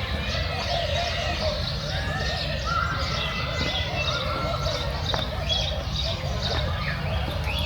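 Many birds chirping and calling at once, a thick layer of short high chirps with a longer call about three seconds in, over a steady low rumble.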